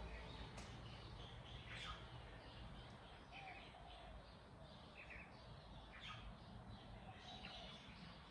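Near silence: faint birds chirping in short, scattered calls over a low steady hum.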